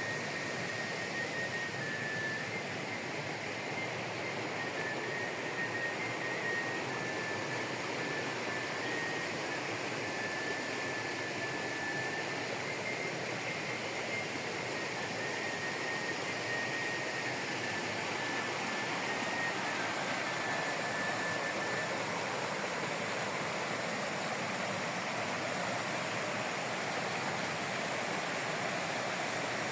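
Steady rushing of a mountain stream or waterfall. A faint thin high whine sits above the water and stops about two-thirds of the way through.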